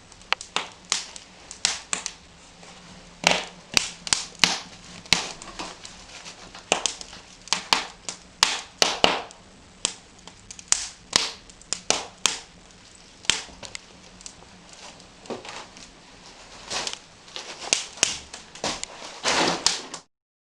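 Wood fire crackling in a brick fireplace, with irregular sharp pops, a few each second.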